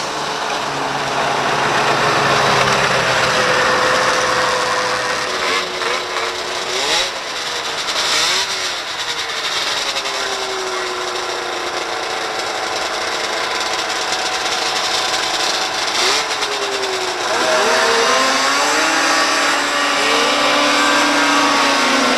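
Two-stroke snowmobile racing engines revving, their pitch rising and falling as they run. About 17 seconds in, a louder set of engines comes in with climbing pitch.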